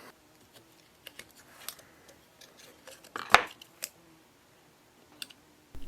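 Small clicks and scraping from pieces of a worn-out hydraulic cylinder seal being picked out of their groove by hand. The sharpest click comes a little past the midpoint. The seal is disintegrated and comes away in pieces.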